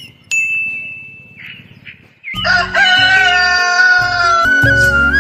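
A bright chime sound effect rings about a third of a second in and fades. From about halfway, a rooster crows over upbeat instrumental music with a steady beat.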